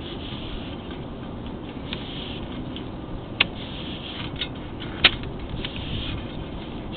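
Sewer inspection camera's push cable being pulled back through the drain pipe: a steady rushing noise with a few sharp clicks, the loudest about five seconds in.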